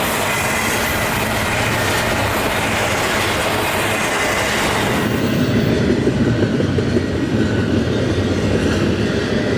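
Freight train passing close by, its cars rolling steadily over the rails. About halfway through, the high hiss drops away and a lower rumble grows stronger.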